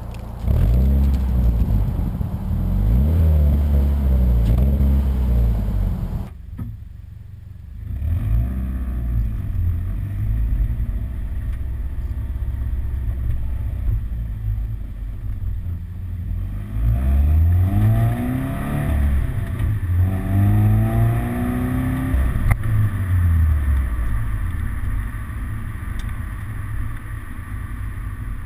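2013 Subaru BRZ / Scion FR-S flat-four engine through a Greddy EVO 3 exhaust with silencers fitted, revved several times in quick succession and then settling to idle. Later two more revs rise and fall before it drops back to a steady idle.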